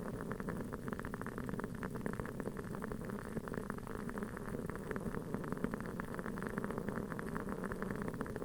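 Wooden-wick aroma candle burning with a continuous soft crackle, many small pops a second like a tiny campfire.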